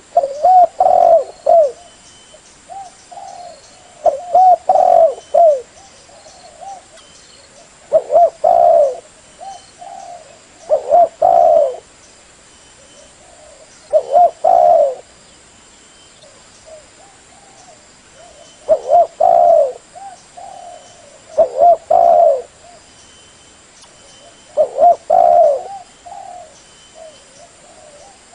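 Spotted dove cooing: a loud, low cooing phrase repeated about every three seconds, eight phrases in all.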